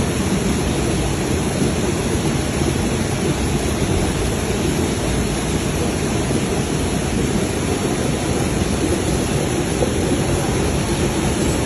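Steady rushing noise, even and unbroken throughout, heaviest in the low range, with no distinct calls or knocks standing out.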